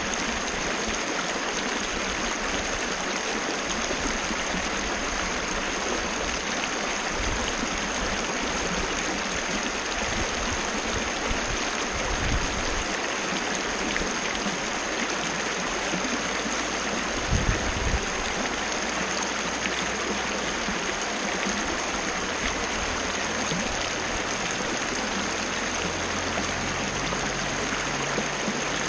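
Waterfall cascade: water rushing and splashing steadily, with a couple of brief low bumps near the middle.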